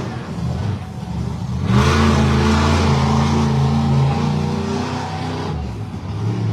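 Monster truck engine at full throttle. It surges up suddenly about two seconds in and holds a steady high note, then eases off near the end.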